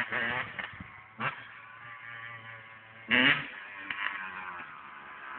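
Two-stroke dirt bike engine running, with a short loud rev about three seconds in before it drops back to a steadier note.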